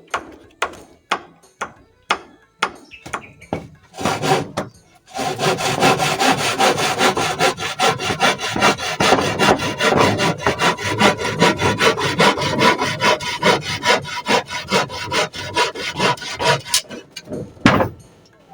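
Hand saw cutting through wood. It starts with a few slow, separate strokes, then settles into about twelve seconds of quick, steady back-and-forth sawing that stops abruptly near the end, with one or two last strokes.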